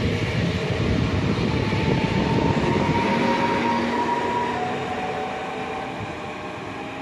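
PESA Elf EN76 electric multiple unit running past on the rails and away: a heavy rumble of wheels on track with a thin electric whine from the drive, the whole sound fading over the last few seconds as the train recedes.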